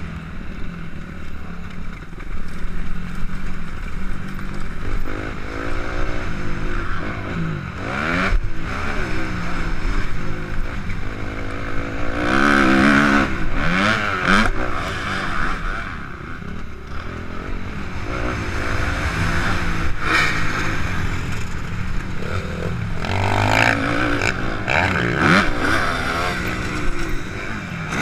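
Suzuki RM-Z 250 motocross bike's four-stroke single-cylinder engine revving hard and dropping off again and again as it is ridden around a dirt track, the pitch climbing through each gear then falling, over a steady rushing noise.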